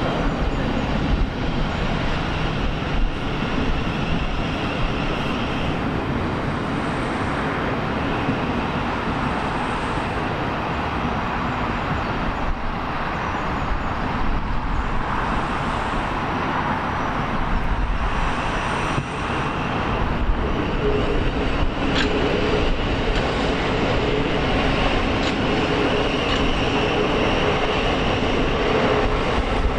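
A train running on the line: a steady, continuous noise of wheels and running gear, with a steady whine joining about two-thirds of the way through.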